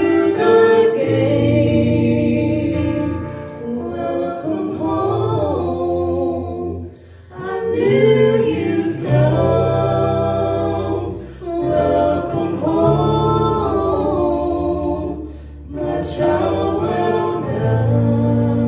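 A cappella vocal group singing a song in close harmony, with low bass voices under the upper parts. The phrases are separated by short breaks.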